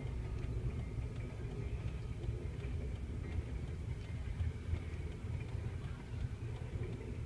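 Freight train rolling past, heard muffled from inside a car: a steady low rumble as the last CSX diesel-electric locomotive goes by and boxcars follow, with a few faint clicks.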